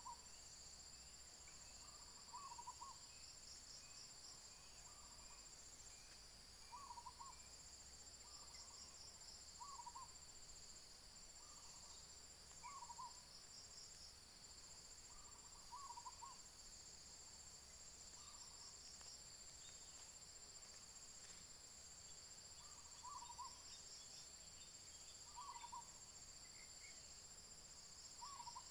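A bird gives a short, low hooting call about every three seconds over a steady, high-pitched drone of insects.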